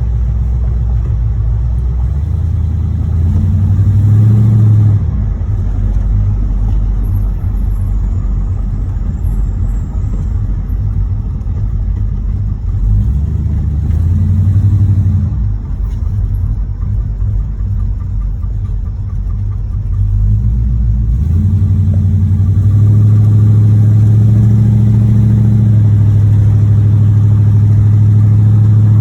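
1986 Chevrolet Monte Carlo SS's V8 engine running under way. It pulls harder twice, then runs louder and steadier from about two-thirds of the way in. The engine has a knocking connecting rod in its bottom end.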